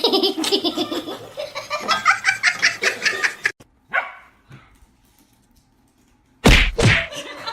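A dog barking, mixed with people laughing, for the first few seconds; a sudden loud thump comes near the end.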